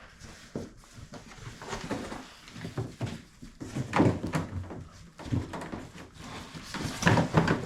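A large cardboard shipping box being opened and unpacked by hand: irregular rustling, scraping and thumps, loudest about four seconds in and again near the end.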